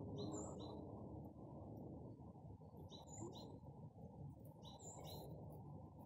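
A small bird calling faintly, three times, each call a quick pair of short high chirps, over a steady low rumble.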